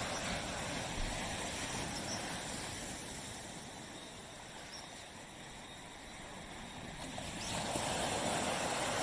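Surf washing on a tropical beach. The wash dies down to a soft hiss around the middle, then the next wave breaks and swells up about seven and a half seconds in.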